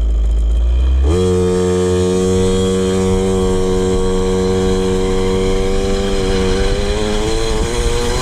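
KTM 50 two-stroke single-cylinder engine idling. About a second in it settles into a steady, even idle, and its speed creeps up gently near the end. The air screw is leaned out to three turns, which raises the idle.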